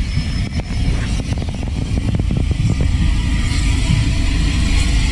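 Train passing close by at speed: a heavy low rumble with a quick run of sharp clicks during the first three seconds, then a steady rushing noise.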